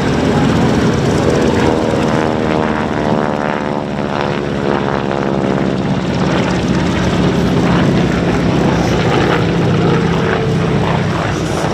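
Radial-engine propeller warplane flying past, its engine drone falling in pitch as it goes by between about two and five seconds in, then running on as a steady drone.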